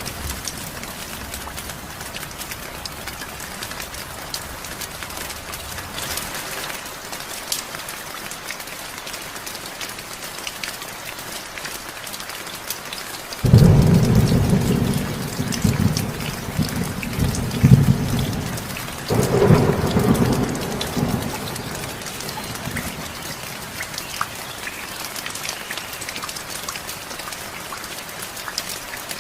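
Heavy rain falling steadily, with a sudden loud thunderclap about halfway through that rumbles on for several seconds, followed soon after by a second, shorter rumble of thunder.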